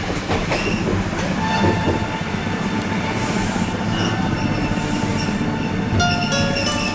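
Local train running along the track, heard from inside the driver's cab: a steady rumble of wheels on rail with a thin wheel squeal from about a second and a half in. Near the end a cluster of ringing tones sets in.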